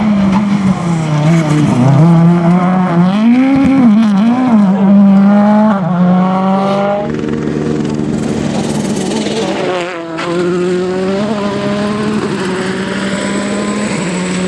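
Rally car engine at high revs, its pitch climbing and dropping as it shifts gears and lifts off. Its loudness dips briefly about ten seconds in, then the engine pulls away again.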